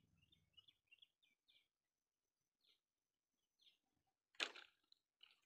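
Faint bird chirps: a quick run of short high notes, then a few scattered ones. About four seconds in comes one brief, sharp noise, the loudest sound here.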